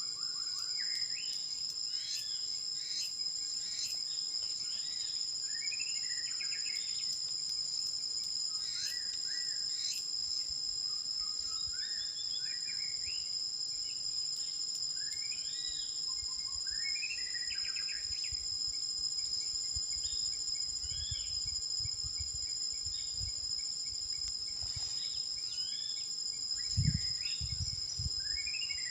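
Songbirds singing repeated, rising-and-falling phrases over a steady, high-pitched insect drone made of two constant tones. A brief low rumble comes near the end.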